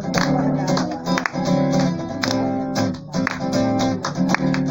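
Instrumental break of a Portuguese gospel song: acoustic guitar strumming chords.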